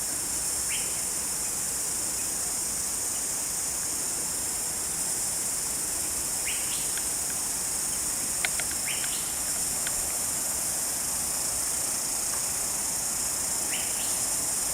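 Steady high-pitched chorus of insects, with a few short bird chirps scattered through it and a single click a little past the middle.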